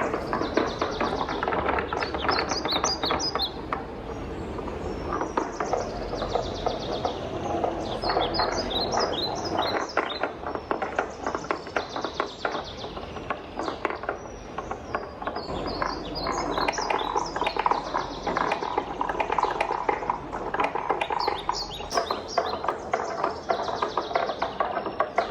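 Wooden balls rolling and clattering down a wooden marble run: a continuous rolling rumble full of rapid clicks, with short flurries of high, quick ticking every few seconds.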